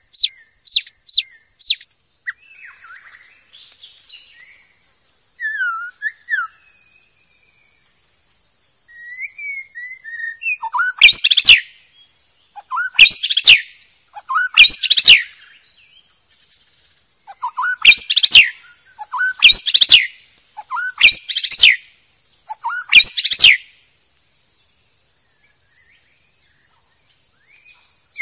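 White-rumped shama singing: a quick run of sharp notes at the start, a few scattered softer calls, then a string of seven loud, rapid whistled phrases about two seconds apart. A faint steady high-pitched hum runs underneath.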